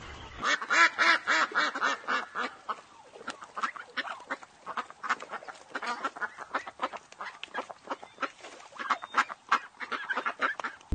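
Ducks quacking: many short quacks in quick succession, loudest in the first two seconds.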